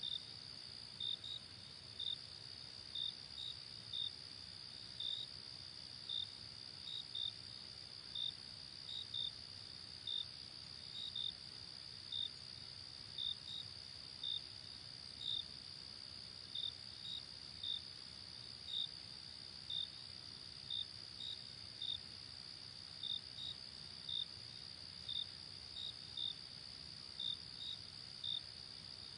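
Night insects, crickets: a steady high-pitched trill with sharper chirps, often in pairs, about one to two a second.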